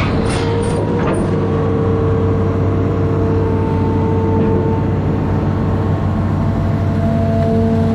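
Amphibious excavator's diesel engine running steadily under load, with a steady whine over the low drone and a few short knocks in the first second or so.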